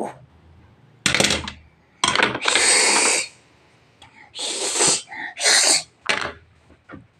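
A person's voice making a series of breathy, sneeze-like noises, about five bursts of hissing breath of up to a second each.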